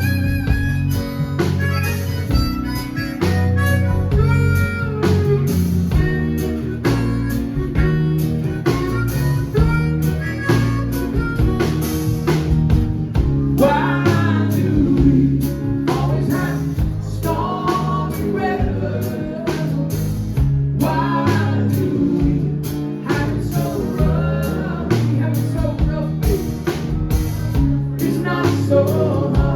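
Live band playing an instrumental break of a soft-rock ballad: a harmonica solo over guitar, bass and a steady drum beat, the lead line growing stronger from about halfway through.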